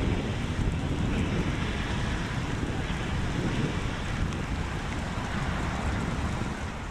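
Hailstorm: wind buffeting the microphone and hail pelting down, a dense, steady rush of noise.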